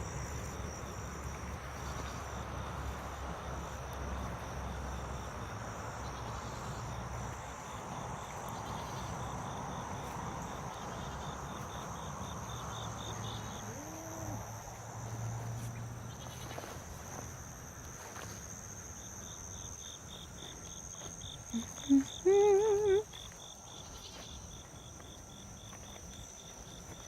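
Insects trilling steadily in the background, a high constant note with pulsing trills that come and go. About two-thirds of the way in a goat bleats once, a short wavering call that is the loudest sound, after a fainter bleat earlier.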